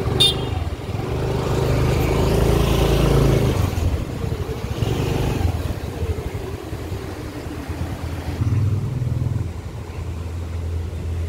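Motorbike engine running, loudest and rising over the first few seconds, then easing to a steadier low hum. A sharp click comes right at the start.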